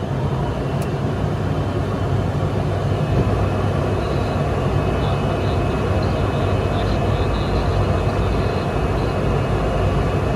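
Steady drone of an ATR 72-600's turboprop engines and propellers, with a strong low hum underneath.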